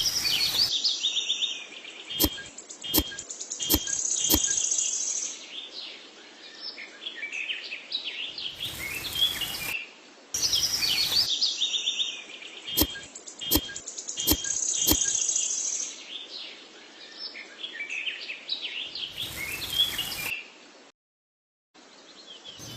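Small birds chirping and tweeting in quick, high, gliding calls, broken by a few sharp clicks; the same stretch of calls seems to repeat about every ten seconds, and the sound cuts out for about a second near the end.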